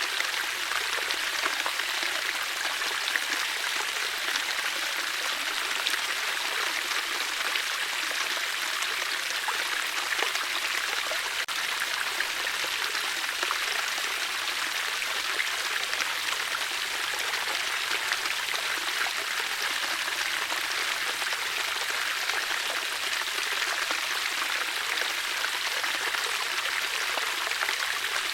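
Water flowing steadily, a stream's even rushing and splashing with no pauses.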